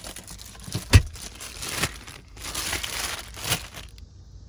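A bag rustling and crinkling as it is handled and packed, with a single thump about a second in; it quiets near the end.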